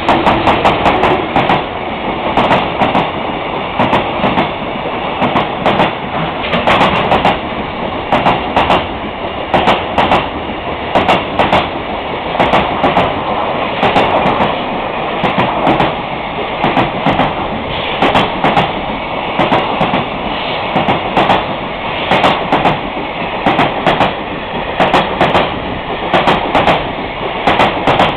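Freight train passing, its wagons' wheels clattering over the rail joints in repeated clusters of clicks over a continuous rumble.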